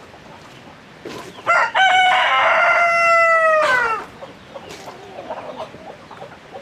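A rooster crowing once: one long call of about two and a half seconds that holds its pitch and drops at the end, with chickens clucking faintly around it.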